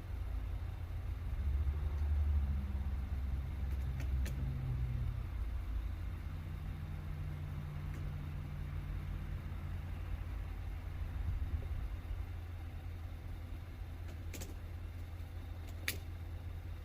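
Truck engine idling steadily with a low hum, a little fuller for a few seconds near the start, with a few sharp clicks later on.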